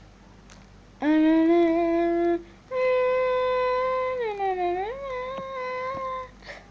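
A voice humming two long held notes, the first lower and short, the second higher and longer, dipping in pitch and coming back up near the middle.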